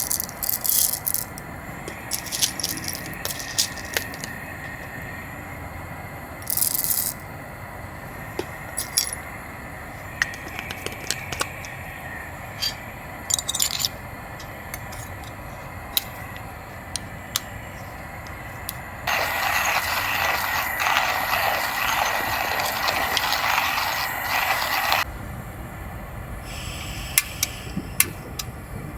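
Scattered clinks, rattles and scrapes of small hard objects being handled, with a steady hiss lasting about six seconds partway through.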